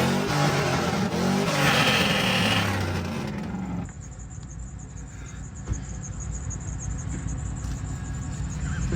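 Vehicle engine revving, then settling to a quieter steady low rumble about four seconds in.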